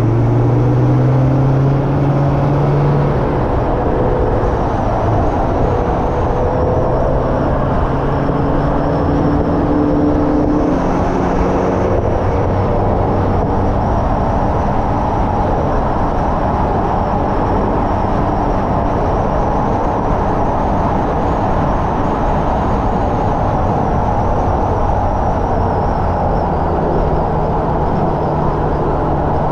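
Hyundai Elantra N's turbocharged four-cylinder engine pulling around a race track under steady load, its note rising and falling with speed, over continuous road and wind noise.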